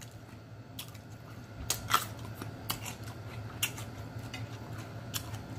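Close-up eating sounds: chewing a bite of fresh jalapeño pepper, heard as scattered sharp wet clicks and smacks of the mouth, about half a dozen at uneven spacing.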